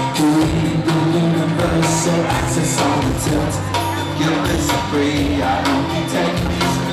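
Rock band playing live, loud and continuous, with sustained notes and steady drum hits and some singing.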